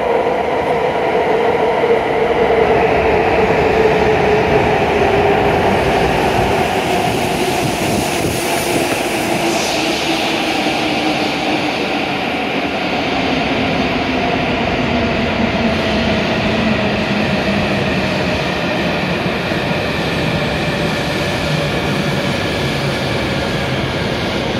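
E7-series shinkansen train pulling into the platform and slowing to a stop: the rumble of the passing cars with a whine that falls steadily in pitch as it brakes, and a brief hiss about ten seconds in.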